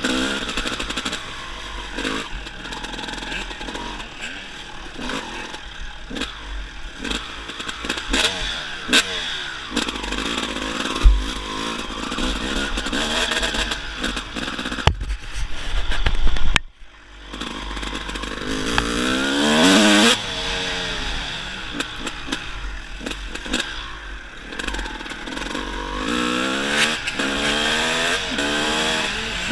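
Dirt bike engine being ridden, its pitch rising and falling repeatedly as the throttle is opened and closed, with scattered knocks and clatter. The sound drops out briefly about halfway through.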